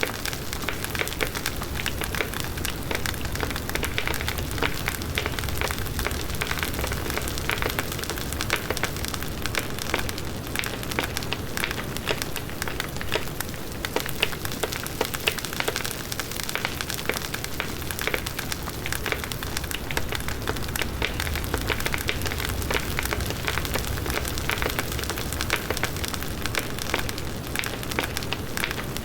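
Large wood bonfire burning steadily, the wood crackling in a dense stream of small sharp pops over the low rush of the flames.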